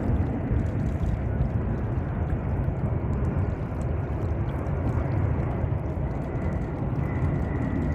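Jet airliner engines running with a steady, deep rumble; a faint high whine comes in near the end.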